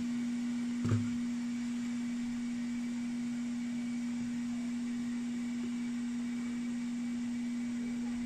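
A steady low electrical hum, a single pure tone held unchanged throughout, with one faint click about a second in.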